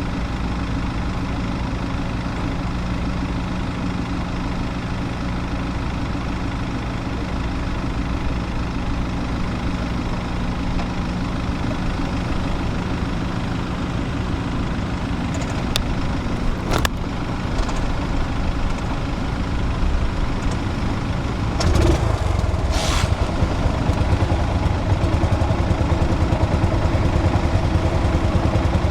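Engines running steadily. A few sharp clanks come about 16 to 17 seconds in, and about 22 seconds in a louder, deeper engine sound takes over and keeps running.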